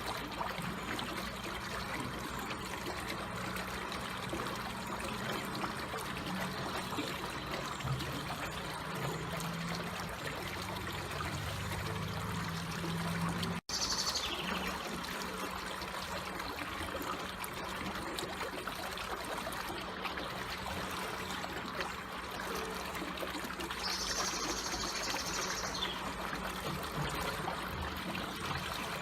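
Slowly flowing water trickling and running steadily, with a momentary break about halfway through and two short high-pitched sounds over it.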